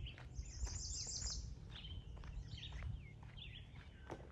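Wild birds calling and chirping: a quick high trill of repeated notes in the first second and a half, then scattered short chirps and whistled glides. Faint clicks of footsteps on the trail underneath.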